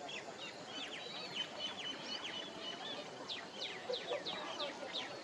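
Birds calling: short, high chirps, each sliding down in pitch. They come faster in the second half, about three a second.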